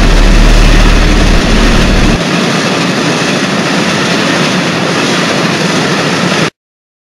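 Loud rushing noise of a train running at speed along the rails. A heavy deep rumble drops away about two seconds in, and the sound cuts off suddenly near the end.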